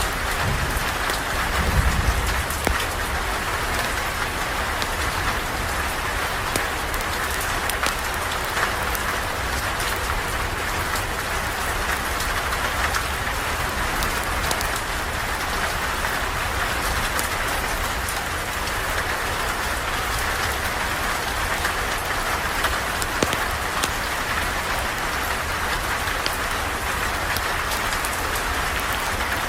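Steady rain falling, with many scattered small ticks of drops and a brief low rumble about two seconds in.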